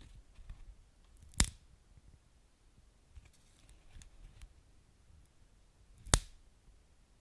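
Wood fire burning quietly with scattered small crackles and two sharp pops, about a second and a half in and again about six seconds in.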